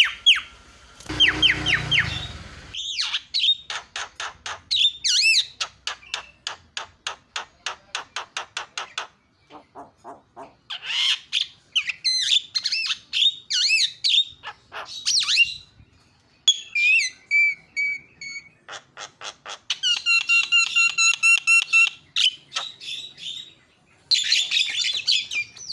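Javan myna (jalak kebo) singing in loud bursts: runs of rapid sharp repeated notes, several per second, mixed with harsh squawks and short whistled notes.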